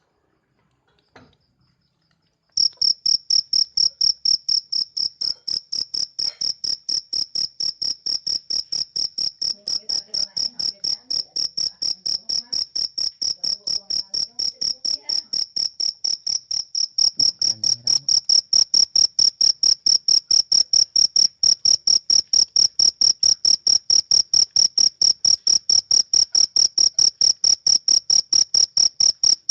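A cricket chirping by rubbing its wings together: a steady, high-pitched pulsed call of about four or five chirps a second. It starts about two and a half seconds in and grows louder a little past halfway.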